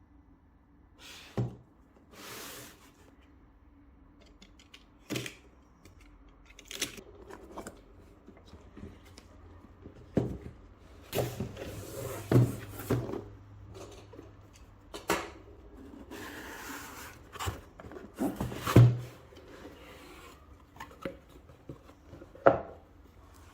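Packaging and parts of a Kreg K4 pocket-hole jig kit being unpacked and handled: scattered knocks and clicks with a few stretches of rustling. The loudest knocks come about halfway through and again about three-quarters of the way through.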